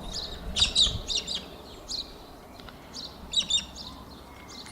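Galahs calling: short, shrill chirping calls in quick clusters, one bunch about half a second to a second in and another about three and a half seconds in.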